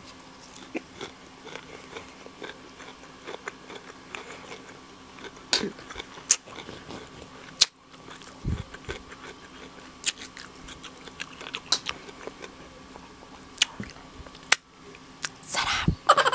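Close-miked chewing of crisp lettuce leaves: irregular wet crunches and bites, a few sharper and louder than the rest.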